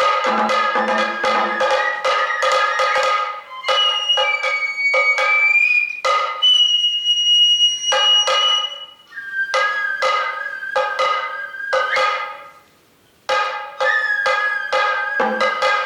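Sato kagura music: a high bamboo flute plays long held notes over a steady run of sharp drum strokes at about three to four a second. It breaks off briefly about twelve seconds in, then the flute and drums resume.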